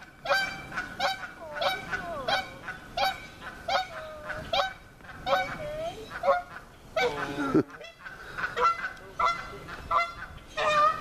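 Geese honking over and over, short calls about twice a second, with one longer falling call about seven seconds in.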